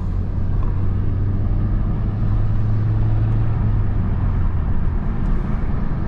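Honda Civic Type R driving on the highway, heard from inside the cabin: steady road and engine noise with a low drone that eases off after about four seconds.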